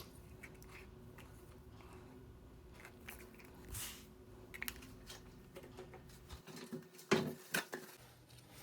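Faint handling sounds of resin-crafting tools and containers: a few soft clicks and taps, the loudest cluster near the end, over a faint steady hum.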